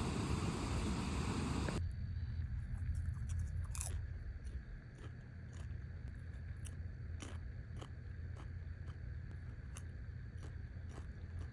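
A steady rushing noise cuts off suddenly about two seconds in. After it come quiet, irregular crunches and clicks of someone biting and chewing crisp food, over a low hum.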